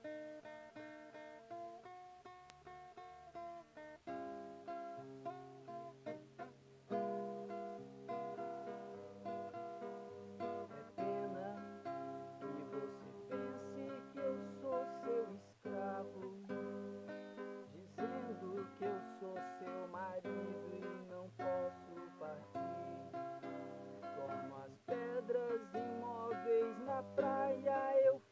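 Acoustic guitar playing a song, chords plucked and strummed with changing harmonies.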